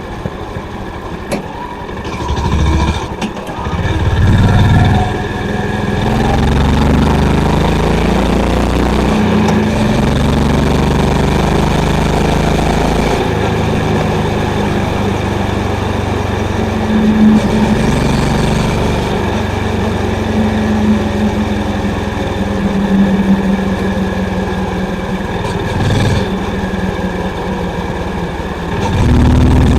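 Honda CB350's air-cooled single-cylinder engine running through its exhaust, the engine speed rising and falling in steps. It revs up loudly about four seconds in and again near the end.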